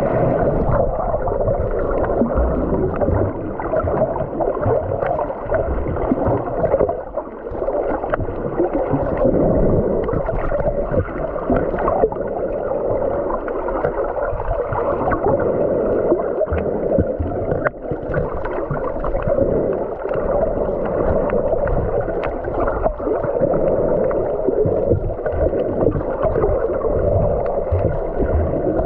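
Muffled underwater sound picked up by a submerged camera while snorkeling: a steady low hum with scattered small clicks and crackles.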